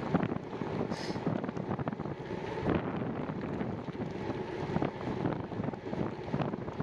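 Wind buffeting the microphone of a camera on a moving bicycle, a steady rough rumble with constant small gusts.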